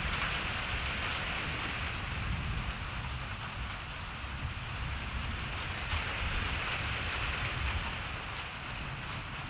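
Steady rain falling with an even hiss that swells slightly near the start and again after about six seconds, over a continuous low rumble.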